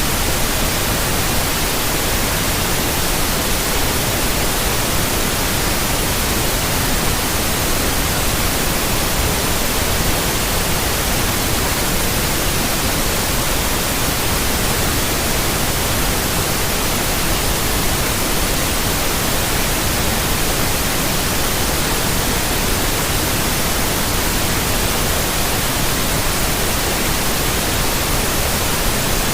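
White noise: a steady, even hiss spread across the whole range of pitch, unchanging throughout.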